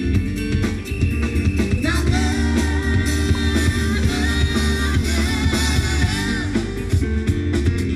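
Live rock band playing a steady, driving groove, with a singer's voice over the band for a few seconds in the middle.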